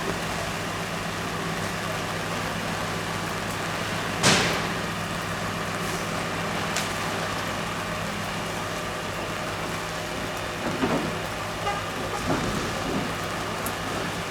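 Fireground noise: a steady rush like spraying or falling water over a constant engine drone, with one sharp crack about four seconds in.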